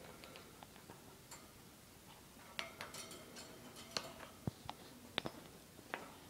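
Pet parrot making quiet scattered clicks and taps, with a brief soft pitched mumble about two and a half seconds in.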